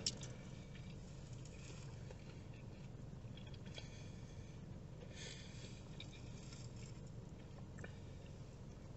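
Faint chewing of a fried cheese stick, with soft mouth sounds around the middle, over a low steady hum in a car's cabin.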